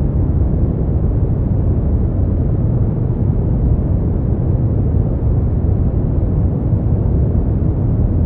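Continuous generated sleep-aid noise, steady and unchanging, with most of its weight in the low end and little high hiss, so it sounds deep and rumbling, more like brown noise than bright white noise.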